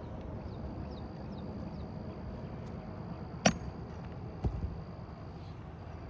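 Two sharp knocks about a second apart, the first louder, over steady outdoor background noise.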